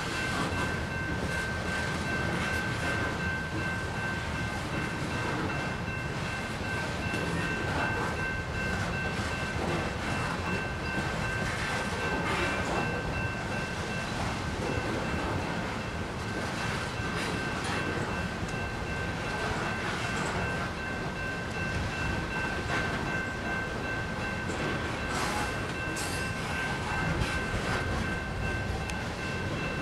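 Coal train hopper cars rolling through a grade crossing, with a steady rumble and clatter of wheels on rail. Over it, the crossing's GS Type 2 bell rings continuously at a high pitch.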